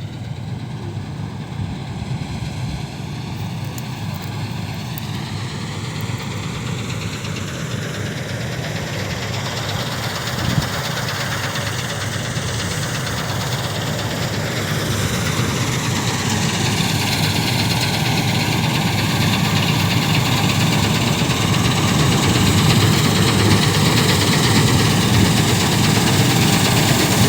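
Combine harvester running at work during a linseed harvest, a steady diesel engine and machinery noise that grows steadily louder. A single short knock sounds about ten and a half seconds in.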